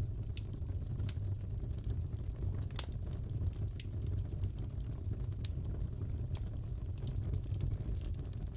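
Crackling fireplace fire: a steady low rumble of burning with scattered sharp pops and crackles, one louder pop a little under three seconds in.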